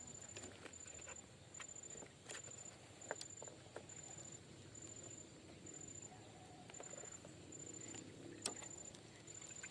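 Faint, evenly pulsed high chirp repeating just over once a second, with scattered small clicks and rustles. One sharper click comes near the end.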